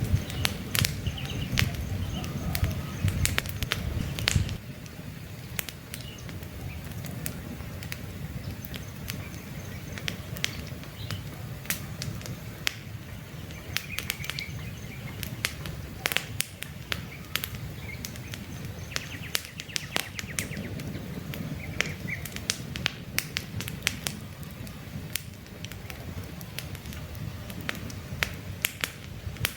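Wood campfire crackling, with frequent sharp pops and snaps. A low rush of the flames is stronger for the first four seconds or so, then drops. Faint bird chirps come now and then.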